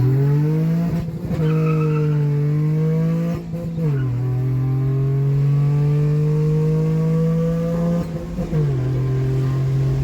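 Honda J32 3.2-litre V6 VTEC engine in a Civic coupe pulling under acceleration: its pitch climbs, then drops with a brief dip at each upshift, three times, about a second in, around four seconds in and near the end, holding steady or creeping up between shifts.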